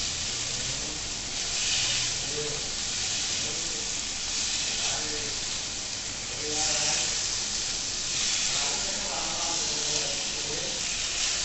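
Spice-coated paneer cubes sizzling in a little hot oil in a nonstick kadhai as they are turned with a wooden spatula; the hiss swells every two to three seconds.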